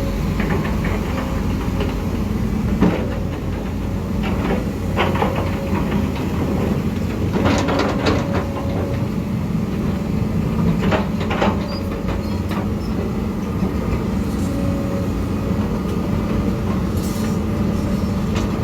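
Heavy diesel earthmoving machinery running steadily, with scattered metal clanks and knocks over the engine drone.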